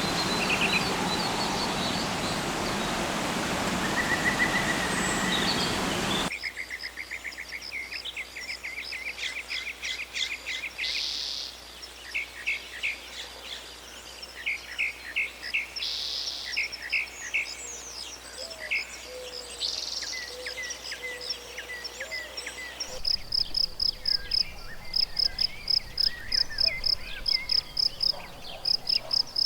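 Rainforest birds chirping and calling over a dense hiss of insects, changing abruptly about six seconds in to a quieter scene of many short, repeated chirps, and again a few seconds before the end to a high call repeated rapidly and evenly.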